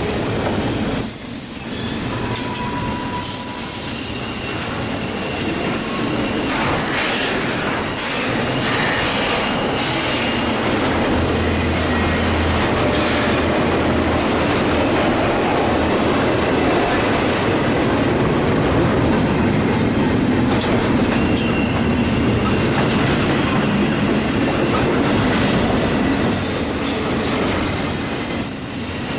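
Eastbound intermodal freight train rolling past, steel wheels running steadily on the rails, with thin wheel squeals now and then.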